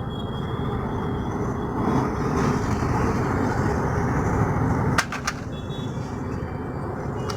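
Steady engine rumble from motor vehicles running, with a couple of sharp clicks about five seconds in.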